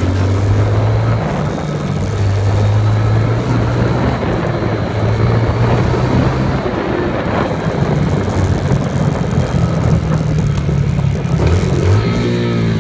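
Motorcycle engine running while riding, its note holding steady through most of the stretch, then dipping and climbing again near the end.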